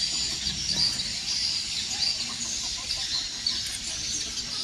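A flock of farmed chickens clucking over a steady, dense chorus of high chirping.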